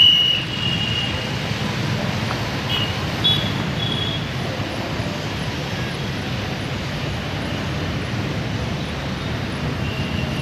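Steady outdoor background noise with a low rumble, cut by a few short high chirps near the start and again around three to four seconds in.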